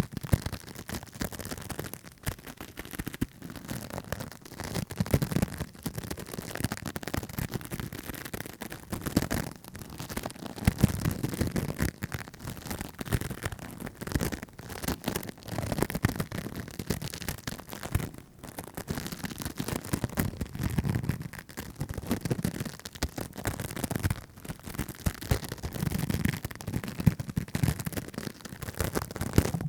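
Fast, crackly tapping and scratching close to a microphone: a dense stream of small clicks, with a low rubbing swell every few seconds.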